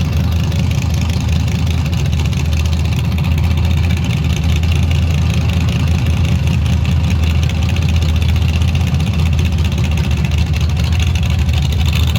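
Off-road race truck engine idling with a steady deep rumble.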